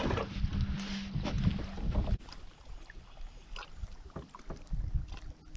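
A small electric motor on a fishing boat hums steadily over a low rumble, then cuts off suddenly about two seconds in. After that come light knocks from handling in the boat.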